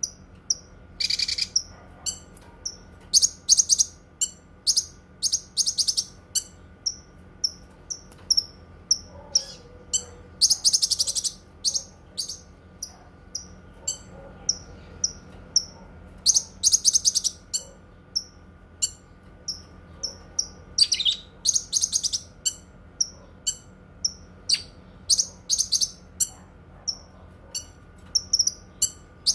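Cucak kinoi singing: short sharp high notes about twice a second, broken every few seconds by longer rapid trilled phrases of about a second.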